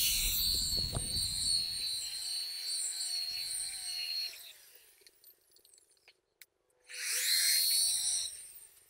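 Electric polisher with a foam pad working a painted car sunroof panel. It spins up, runs steadily with a whine for about four seconds and winds down, then runs again briefly near the end.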